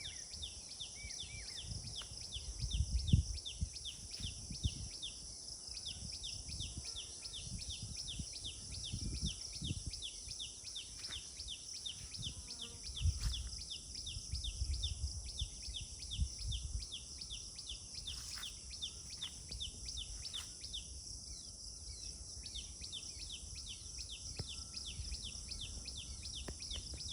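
Outdoor animal chirping: a short, high, downward-sweeping chirp repeated several times a second almost without a break, over a steady high hiss, with irregular low rumbles.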